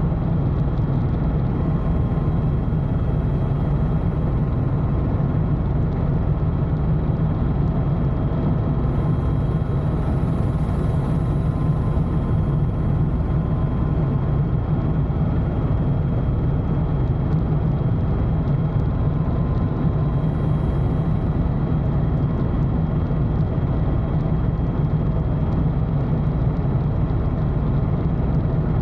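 Tour helicopter heard from inside the cabin in flight: a steady, loud drone of turbine engine and rotors, mostly low, with a few faint steady whines above it.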